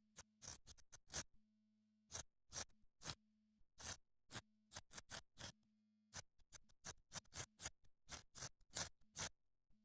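Knife scraping wood into fine shavings for fire tinder: short, sharp rasping strokes at roughly three a second, with a short pause about a second in.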